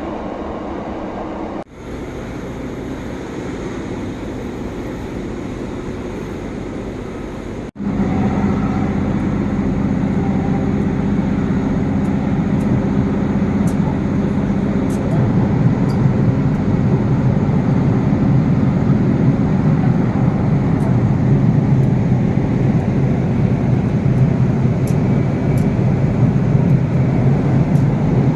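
Diesel train running, a steady low engine drone with a hum of evenly spaced tones, growing louder in the second half. The sound breaks off abruptly twice, about two and eight seconds in.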